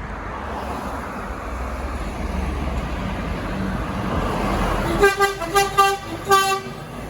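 A truck passing by, its engine and road noise building over the first five seconds, then a series of about five short blasts on its air horn.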